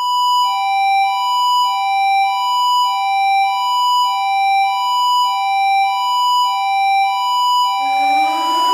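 Electronic two-tone ambulance siren alternating between a high and a low tone, about one high-low cycle a second. Near the end a rising wail siren with a hiss cuts in over it.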